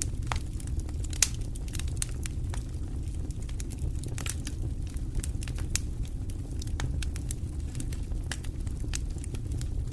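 Wood fire crackling in a fireplace: irregular sharp pops and snaps over a steady low rumble of burning logs, with one louder pop about a second in.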